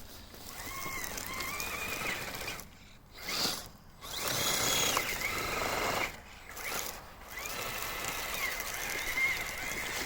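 Electric motor and gearbox of a Kyosho Blizzard radio-controlled tracked snow vehicle, whining and gliding up and down in pitch as the throttle is worked, cutting out briefly twice.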